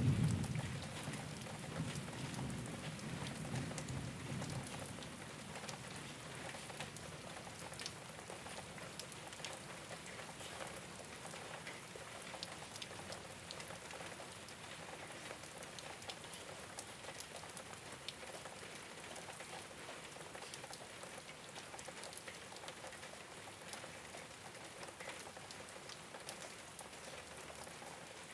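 Steady rain falling on a rooftop, a dense patter of drops with scattered sharper ticks. A low thunder rumble dies away over the first few seconds.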